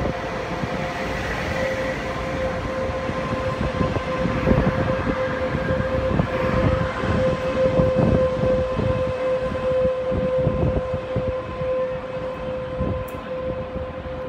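Taiwan Railways EMU500 electric multiple unit pulling away from the platform: running rumble with a dense run of wheel knocks over the rail joints. A steady high tone holds throughout.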